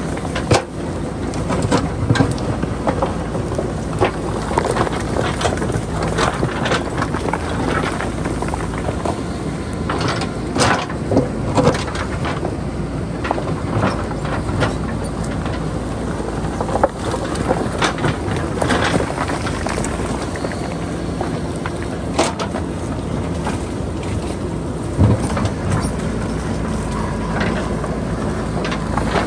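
JCB backhoe loader's diesel engine running steadily, with irregular sharp clanks and knocks from the bucket working the rocks and boulders.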